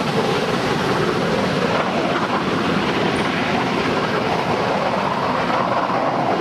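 Train running past on the rails, a steady rumble and clatter of wheels on track.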